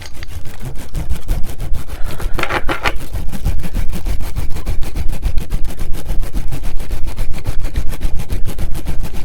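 Hands working fast and hard right on a TASCAM recorder's microphones, at a steady rapid rhythm of about nine strokes a second with heavy low thumps.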